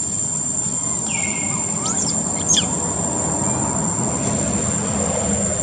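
Bird calls: a falling whistle that levels off about a second in, then a few quick high sweeping chirps around two seconds in. Under them run a steady outdoor hiss and a constant high-pitched whine.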